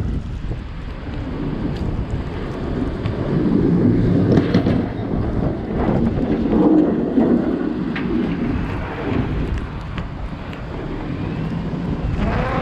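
Car driving through a snowstorm: steady road and wind noise, swelling louder in the middle.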